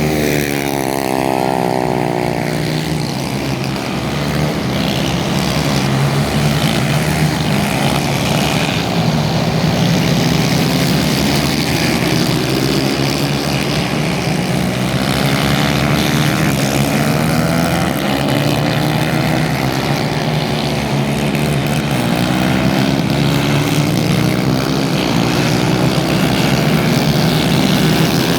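Several racing kart engines running hard at once, their pitches rising and falling with the throttle, which overlap into a continuous buzzing drone.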